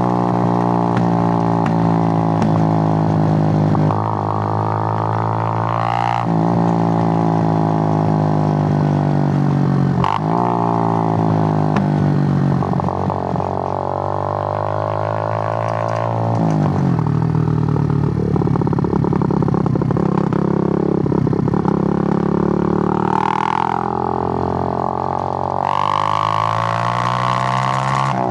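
Suzuki GN125's single-cylinder four-stroke engine under way, its pitch climbing and dropping back at each gear change several times in the first half, then wavering less evenly. A rush of wind noise joins near the end.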